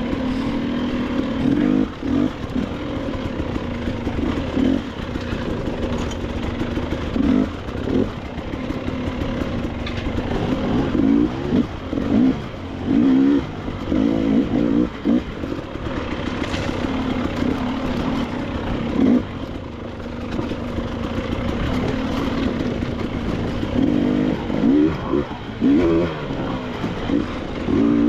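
KTM 300 XC-W two-stroke enduro dirt bike engine running under riding load, revving up in short surges and dropping back again and again as the throttle is worked over rough ground.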